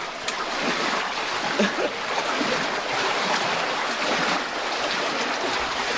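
Steady rush of flowing water, with feet wading and splashing through it.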